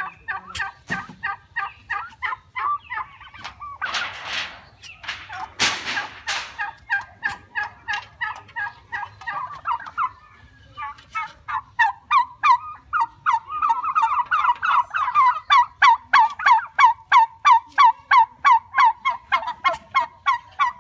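Domestic turkey calling in a long series of short, evenly repeated calls, about three a second, getting louder in the second half. Two brief rushing noises sound about four and six seconds in.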